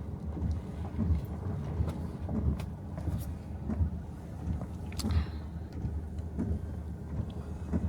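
Car cabin road noise while driving in the rain: a steady low rumble with tyre hiss and a few faint ticks.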